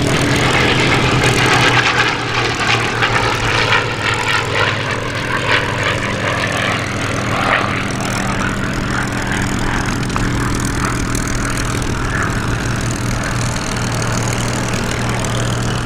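Piston-engined Spitfire and Hurricane fighters running with a steady, low propeller drone from their Rolls-Royce Merlin V12 engines, a little louder in the first two seconds.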